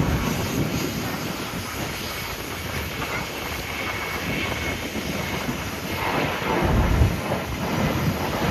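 Boeing 737-800's CFM56 jet engines running with a steady roar and a faint high whine. The sound grows louder about six to seven seconds in.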